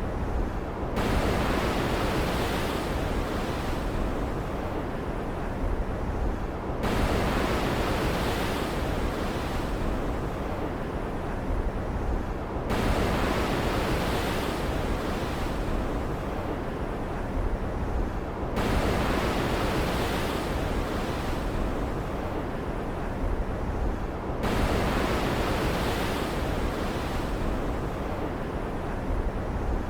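Steady storm ambience of rain and ocean surf, a dense hiss with no thunder. About every six seconds the texture switches abruptly between a brighter, hissier stretch and a duller one.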